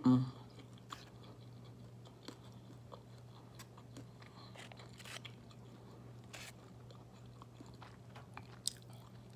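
A person chewing and biting chicken wings close to the microphone: scattered soft mouth clicks and smacks, a few a second apart, over a low steady hum.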